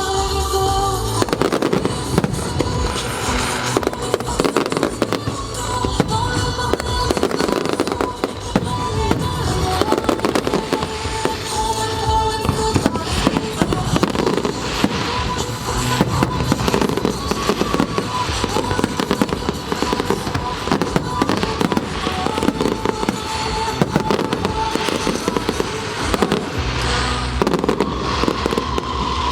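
Fireworks bursting and crackling continuously, with a music soundtrack playing alongside.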